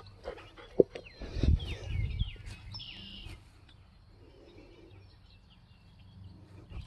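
Birds chirping, a quick run of short falling calls in the first half, over a few low thuds and a dull rumble.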